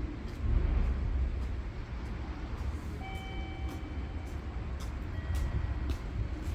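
Freight train rolling slowly into a station: a heavy low rumble with wheels clicking over rail joints, and a brief high squeal about three seconds in.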